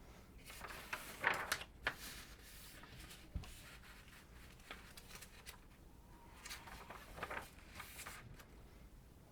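Quiet handling noise: two spells of rustling and crinkling with a few light clicks, and one dull knock about three and a half seconds in.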